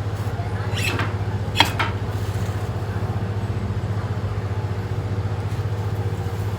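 A steady low engine-like drone with a fast, even pulse, and a few sharp metallic taps about a second in.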